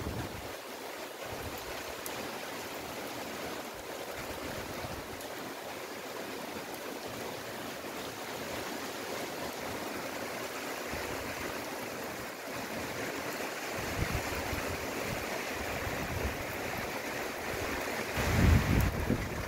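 Steady hiss of falling rain, growing a little stronger about halfway. A gust of wind buffets the microphone near the end.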